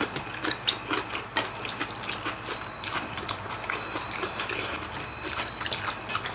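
Eating sounds: metal chopsticks clicking and tapping against bowls and plates, with chewing, as many small irregular clicks.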